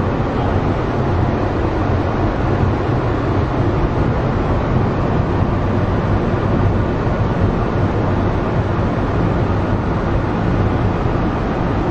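Running noise heard inside a driverless, rubber-tyred, cable-hauled people-mover train as it travels along its guideway: a steady rumble with a hiss over it.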